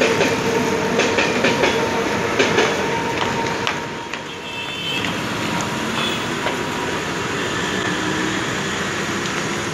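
Suburban electric multiple-unit train running past on the tracks, its wheels clacking over rail joints in quick repeated knocks for the first few seconds, then settling into a steadier rumble.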